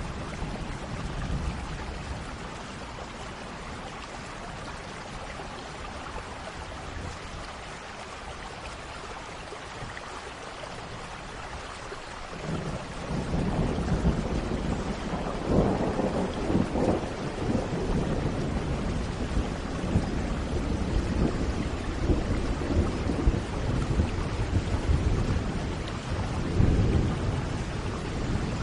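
Steady rain with thunder. About twelve seconds in a low rumble builds, with louder rolls of thunder a few seconds later and again near the end.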